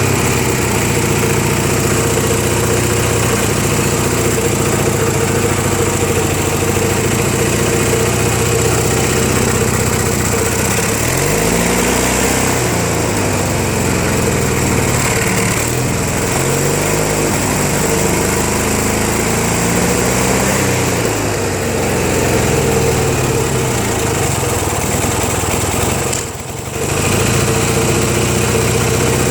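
Small air-cooled tractor engine running on its original exhaust, its pitch wavering up and down for several seconds in the middle as the engine speed changes. The sound dips briefly about 26 seconds in.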